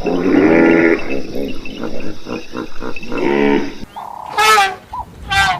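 Farm animals calling: a drawn-out call at the start and another a little past three seconds, with a run of short grunts between them. About four seconds in, shrill high calls take over.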